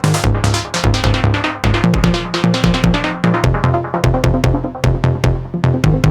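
Live improvised electronic techno music from an Elektron Digitakt drum machine and an Arturia MiniBrute 2SE analog synth. A steady beat of about two hits a second, with hi-hats, runs under a sequenced synth bassline that steps between notes.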